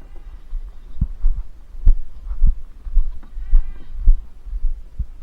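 Ducks calling twice, short nasal calls near the start and about three and a half seconds in, over a run of irregular low thuds.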